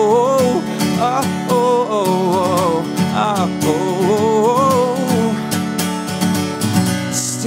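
Live acoustic song performance: a strummed acoustic guitar under a melodic line with vibrato, which stops about six seconds in.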